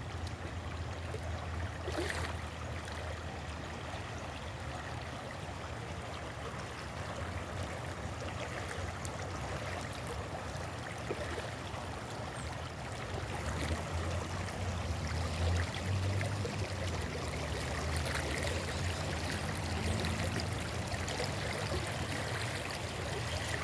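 Running water, as of a small stream, flowing steadily, with a low rumble beneath it.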